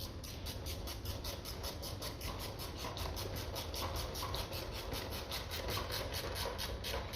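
Worm-drive hose clamp on the air intake tube being tightened, a steady run of fast, even clicks, about six a second.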